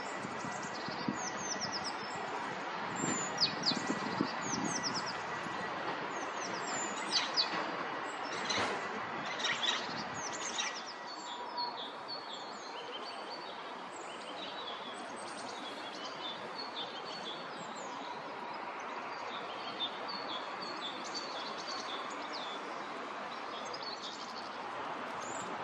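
Small birds chirping and calling again and again over a steady background hum. Quick, high, down-slurred chirps give way about eleven seconds in to a run of shorter, lower notes.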